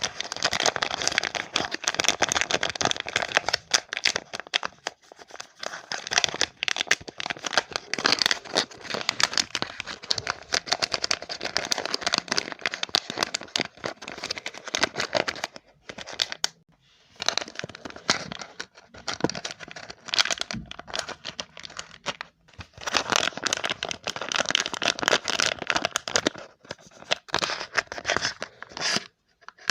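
Close-up crinkling and crackling as something crinkly is crumpled and handled, in continuous stretches broken by brief pauses about halfway through and near the end.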